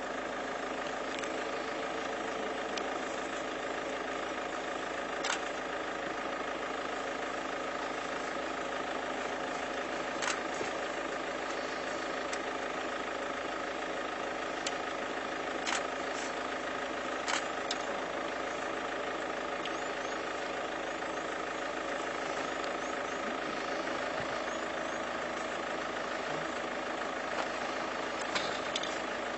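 A vehicle engine idling steadily, with a few short clicks over it.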